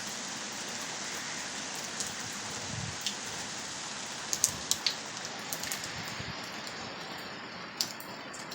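Heavy rain falling steadily in a downpour, with scattered sharp taps of drops striking a nearby surface, a small cluster of them about halfway through.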